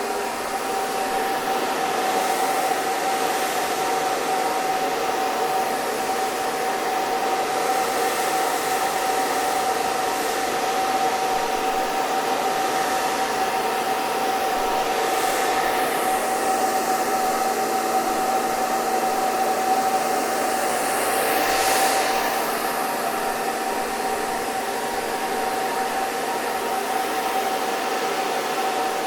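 Hair dryer running steadily: a continuous blowing noise with a constant whine from its motor.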